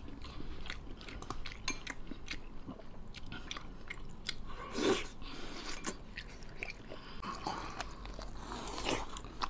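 A person chewing and gnawing a chewy piece of spicy braised beef hoof tendon close to the microphone: many short wet mouth clicks and smacks, with a slightly louder mouthful sound about five seconds in.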